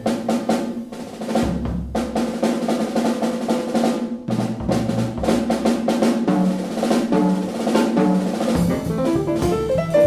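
Jazz drum kit playing a solo break: dense snare and tom strokes with rolls and rimshots, punctuated by bass drum hits.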